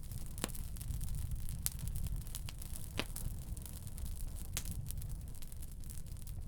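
Firewood burning in a wood stove: scattered sharp crackles and pops, about half a dozen, over a low steady rumble.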